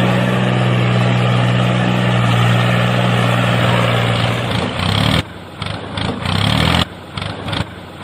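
Tractor engine sound effect running steadily, then from about five seconds in turning choppy, cutting out and catching again several times.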